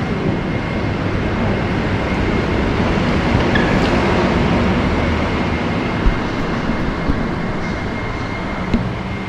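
A train running steadily in the station: a continuous rumble and hum with a thin, steady high whine over it and a few faint clicks.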